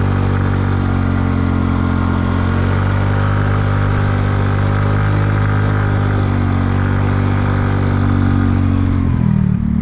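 Kymco People 250 scooter's single-cylinder engine running at a steady pitch under way, its note dropping near the end as it slows. Its exhaust leaks are freshly sealed with JB Weld high-heat epoxy, and the owner finds it quieter for it.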